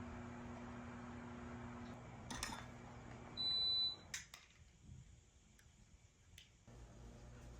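A single short, high electronic beep lasting about half a second, with a soft click before it and two sharp clicks right after, over faint room tone and a low steady hum that stops about two seconds in.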